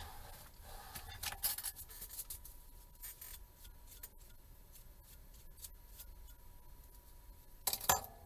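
Small clicks, scrapes and rubbing of hands working with tools and parts on a workbench, with a louder short clatter near the end.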